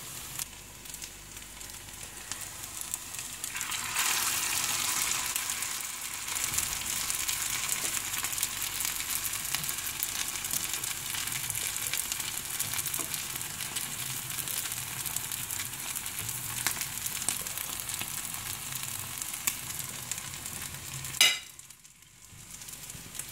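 Potato tikki shallow-frying in hot oil in a pan, a steady sizzle with crackle that gets louder about four seconds in. A short sharp sound comes near the end, and the sizzling stops after it.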